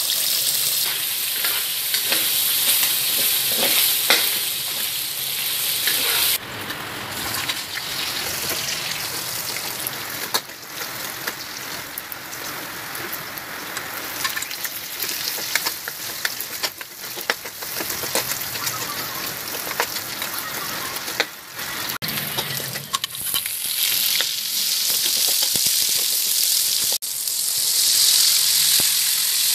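Boiled pork pieces and garlic sizzling in hot oil in a wok, rendering out their fat, with stirring. The hiss jumps louder near the end as boiled mung beans are poured into the wok.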